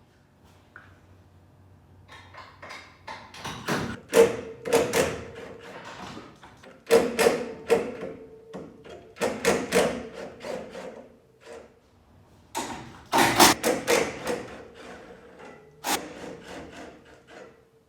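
Clusters of knocks, clanks and scraping from hand tools at work on a race car during engine removal, with short pauses between bursts and a faint steady hum underneath.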